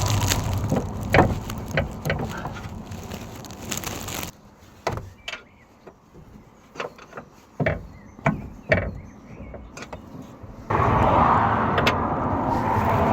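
Scattered clicks and knocks of hand tools on metal car parts over a steady noisy background. The background drops away abruptly about four seconds in and comes back just before the end.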